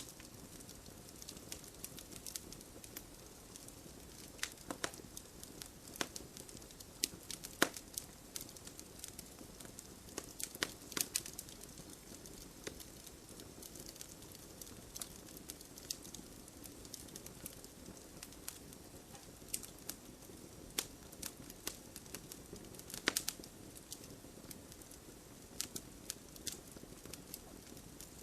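Wood campfire burning logs: a steady low hiss and rumble with irregular sharp crackles and pops scattered throughout.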